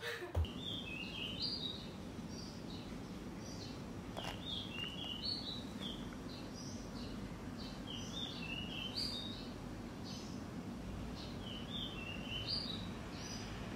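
Birds chirping: short high calls that dip in pitch, repeating about once a second, over a steady low background hum. There is a brief low thump just after the start.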